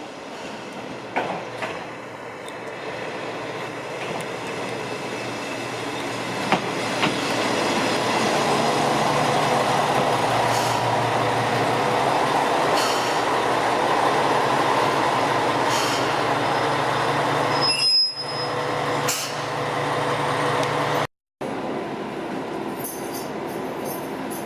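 Heisei Chikuho Railway 500-series diesel railcar pulling in: the rumble of wheels on rail builds over several seconds, with a few sharp clicks early on. A steady low diesel engine note runs under it later. The sound cuts out briefly near the end.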